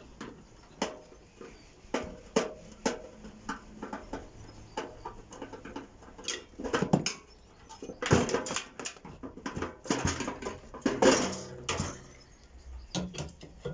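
Irregular clicks, knocks and rattles of a screwdriver, screws and sheet-metal parts as a microwave oven is taken apart by hand, with busier bursts of clatter about 8 and 11 seconds in.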